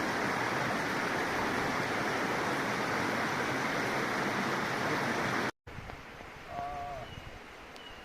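Rushing water of a forest stream and waterfall, a steady, even rush. About five and a half seconds in it cuts off abruptly to a much quieter stretch with a brief wavering call and a couple of faint high chirps.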